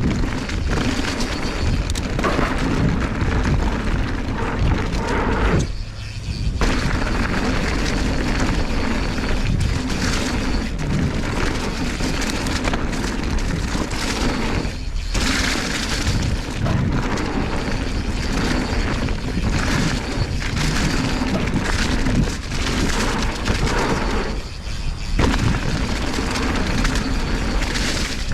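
Wind buffeting the action camera's microphone and mountain bike tyres and frame rattling over dirt singletrack during a fast downhill run, a continuous loud rushing noise that drops off briefly three times.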